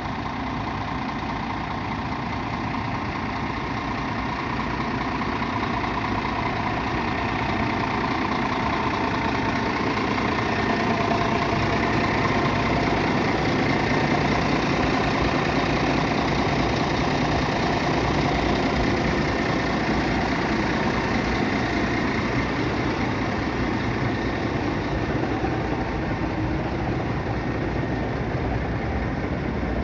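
Scania G450 8x4 truck's 13-litre straight-six diesel engine idling steadily.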